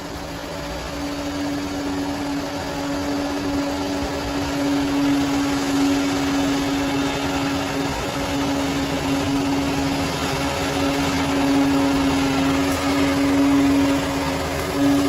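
Bulldozer running steadily, its engine and machinery giving a constant drone with a strong steady tone over a dense rattling noise.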